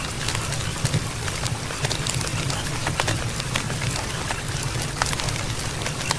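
Campfire burning and crackling: irregular sharp snaps and pops over a steady low rumble.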